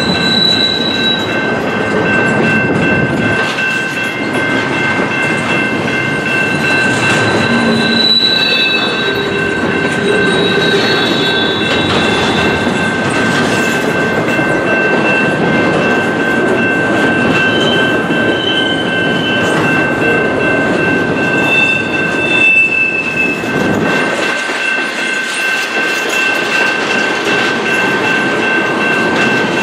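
Loaded double-stack container well cars of a freight train rolling past: steel wheels on rail with a continuous rumble and clatter, and brief high-pitched wheel squeals that come and go.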